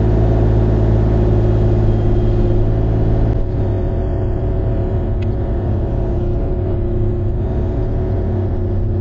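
Bobcat E35 mini excavator's diesel engine running steadily under work. About three and a half seconds in, the even hum turns rougher and less steady.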